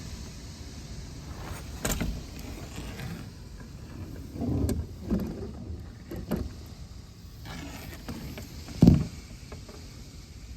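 Hurricane-force wind rumbling against the microphone, with a handful of dull thumps and knocks. The loudest thump comes near the end.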